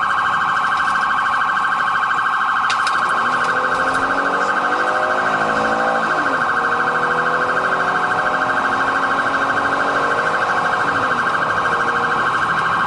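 Police car siren sounding a fast, rapidly pulsing yelp at a steady level. From about three seconds in until near the end, a second siren wails more faintly underneath, rising and falling.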